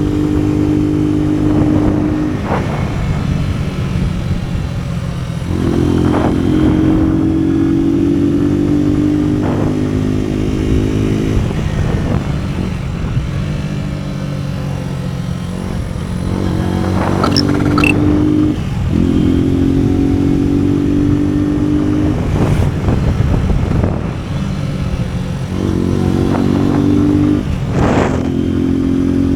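AKT NKD 125 single-cylinder motorcycle engine running under way, its note holding steady for a few seconds at a time, then dropping away and coming back several times as the throttle is worked. A few short sharp clicks sound over the engine.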